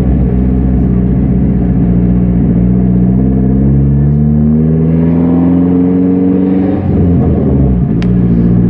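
A car engine drones steadily, then climbs in pitch for about four seconds as it accelerates. Its pitch drops abruptly as the throttle comes off, and it settles back to a steady drone.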